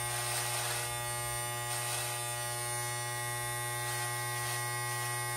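Electric hair clippers buzzing steadily while shaving the undercut, a constant low hum with a faint hiss of cutting now and then.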